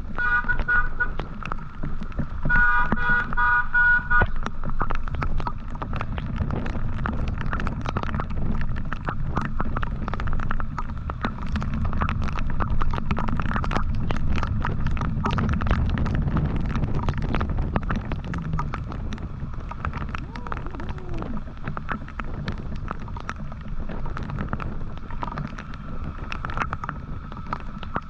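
A vehicle horn honks twice, a short toot and then a longer one about two and a half seconds in, over the steady rumble of a motorcycle ride with road and wind noise.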